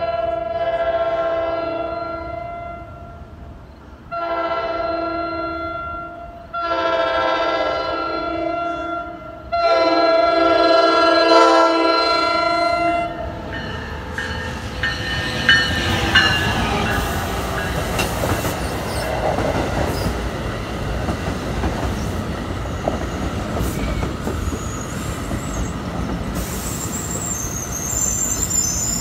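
NJ Transit commuter train horn sounding four blasts as the train nears a grade crossing, the last blast the loudest. The train then passes close by with a rumble of wheels on rail, clicks over the rail joints, and a high wheel squeal near the end.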